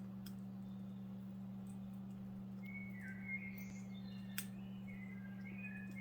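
Pet bird chirping in short whistled notes from about halfway through, over a steady low hum, with a couple of sharp clicks.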